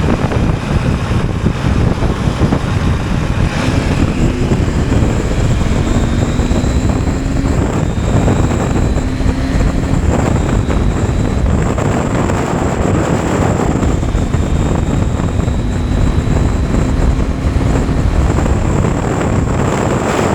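Motorcycle riding along, its engine running under heavy wind rush on the microphone, with the engine's pitch rising a little now and then.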